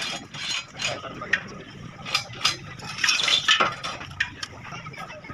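Steel pieces clinking and knocking together in a string of sharp, irregular clanks, busiest about three seconds in.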